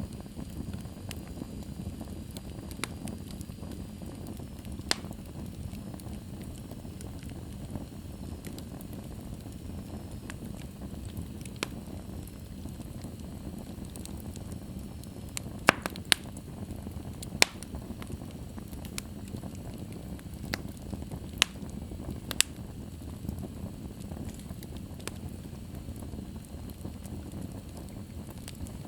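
Wood fire burning in a fireplace: a steady low rumble of the flames with scattered sharp crackles and pops, a cluster of louder pops in the second half.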